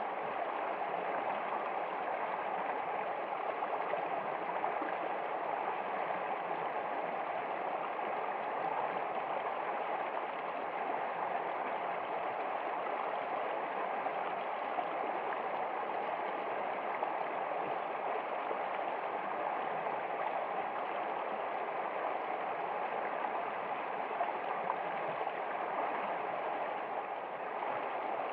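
Flowing stream water running steadily, an even rush with no breaks or changes.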